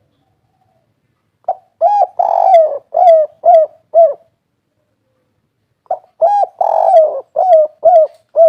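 Spotted dove cooing in the 'kuk 3' song style: two song phrases, each a short opening note and a couple of longer coos followed by three short clipped 'kuk' notes.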